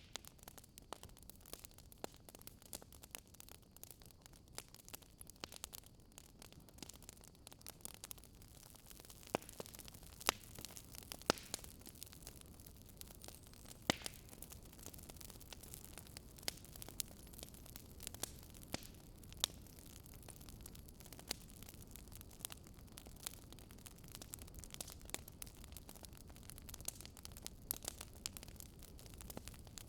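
Wood fire crackling in a fireplace: irregular sharp pops and snaps, some louder than others, over a low steady hiss of the burning logs.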